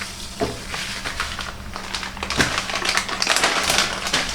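Detergent powder being added from its packet into the washing machine tub: a dense, crackling rustle of many short clicks, with a dull knock about half a second in and another about two and a half seconds in.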